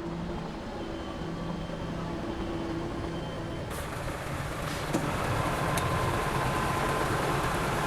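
Heavy diesel engine running steadily. It grows louder and brighter about halfway through, with a single sharp click about a second later.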